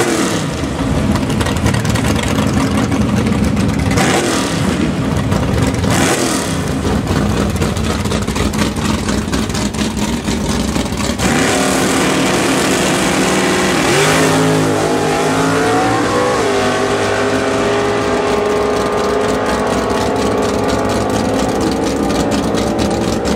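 Chevrolet Nova SS drag car's V8 rumbling at the starting line, blipped twice, then launching about fourteen seconds in, its note rising through the gears as it pulls away down the strip.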